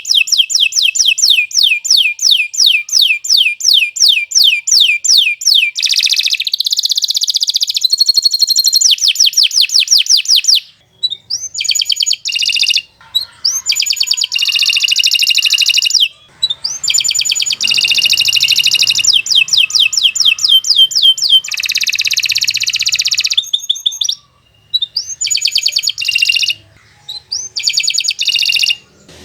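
Domestic canary singing a long, loud song of rapid trills. It runs through changing phrases of fast repeated notes that sweep downward, several per second, broken by a few brief pauses.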